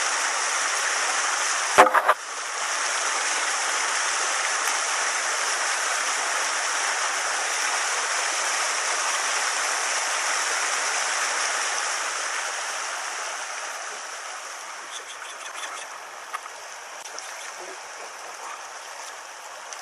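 Shallow stony stream rushing steadily over rocks, growing quieter from about twelve seconds in. A sharp knock about two seconds in.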